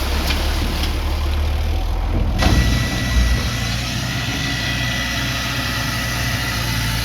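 Heavy earthmoving machine's engine running steadily, with a thin steady whine that begins about two and a half seconds in.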